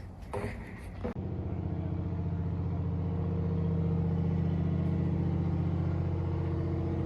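A boat's engine running steadily at a low, even pitch. It starts abruptly about a second in, after a few light knocks.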